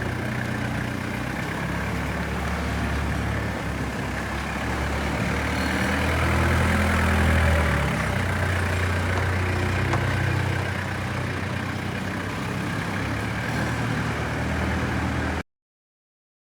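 Diesel engine of a Heden FD30T forklift idling steadily, rising briefly in revs about six seconds in before settling back. The sound cuts off suddenly near the end.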